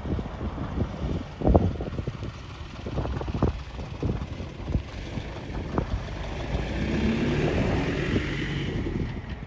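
Kōnan Railway Ōwani Line train running over the level crossing, its wheels giving irregular knocks and clatter on the rail joints, with wind on the microphone. A rumble swells and fades about seven seconds in.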